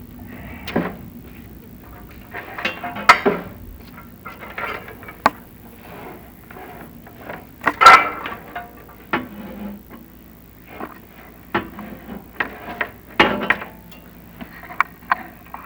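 Inspection camera head scraping and knocking against a chimney flue's clay tile liner as it is lowered: irregular clicks, knocks and scrapes, the loudest clatter about eight seconds in.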